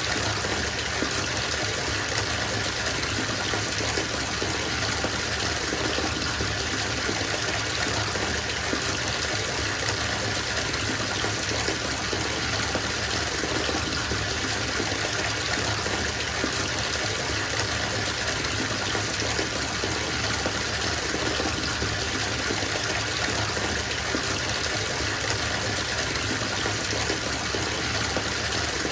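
Water running from a tap into a bathtub, a steady, even gushing and splashing that does not change.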